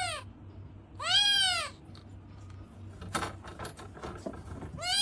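Domestic cat meowing in drawn-out calls that rise and fall in pitch: one ends as the sound begins, one comes about a second in, and another starts near the end. A few faint knocks come in between.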